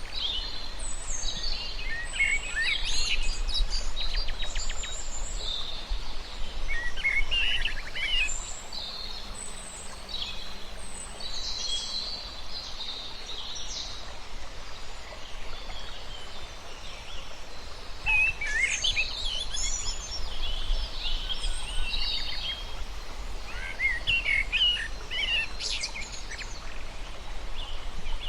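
Several birds chirping and singing in clusters of short, high calls. The song comes in bursts near the start, around the middle and in the last third, over a steady low background noise.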